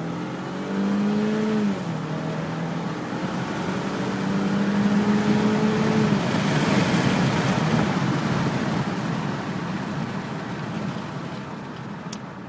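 2010 Chevy Malibu's 2.4-litre four-cylinder engine at full throttle from a standstill, heard from inside the cabin. The engine note climbs in pitch, then drops as the six-speed automatic upshifts, once about two seconds in and again about six seconds in. Road and wind noise then build over the engine before the sound eases off near the end.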